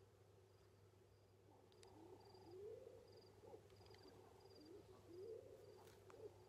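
Faint low cooing bird calls, each rising and falling in pitch, repeated every second or so, over a faint high chirp that repeats about twice a second.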